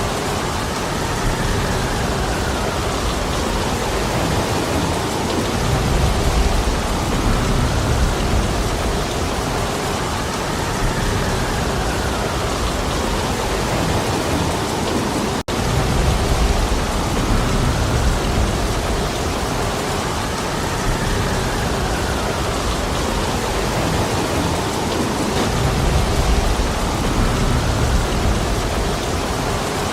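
Heavy rain falling steadily, with a deeper rumble swelling up and fading roughly every ten seconds. The sound cuts out for an instant about halfway through.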